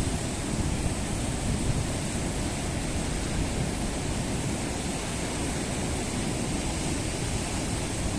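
Steady rushing noise of a windy rainstorm, with strong gusts buffeting the microphone as a flickering low rumble.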